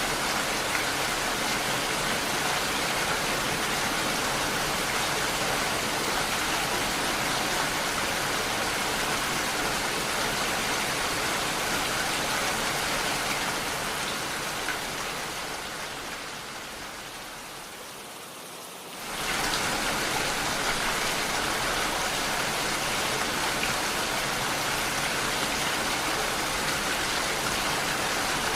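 Steady rain falling, an even hiss of drops. About two-thirds of the way through it fades down over several seconds, then comes back suddenly at full strength.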